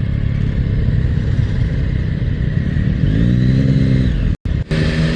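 Yamaha MT-09's three-cylinder engine running with a low, steady rumble. About three seconds in, the engine note rises briefly and falls back. Near the end the sound drops out for a moment, then the engine is heard running steadily again.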